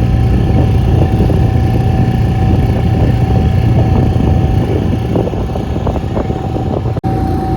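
Motorboat engine running steadily: a low drone with a constant whine above it.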